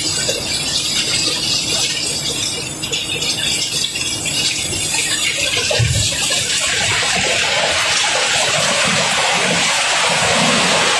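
Cobblestones pouring and sliding in a steady rushing clatter, with a low thump about six seconds in, then a denser, louder rush from about seven seconds on.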